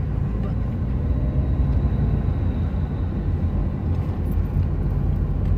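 Steady low rumble of a vehicle on the move, heard from inside the cabin: engine and road noise, with a faint steady high whine over the first few seconds.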